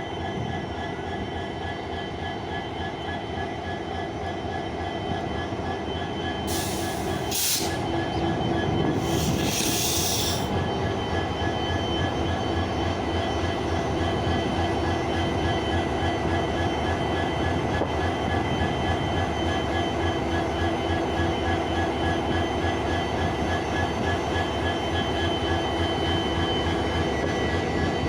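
WDP4 diesel locomotive's EMD 16-cylinder two-stroke engine running steadily with a fast low throb and a steady high whine, growing a little louder around six to eight seconds in. Two short blasts of hissing air come at about seven and ten seconds.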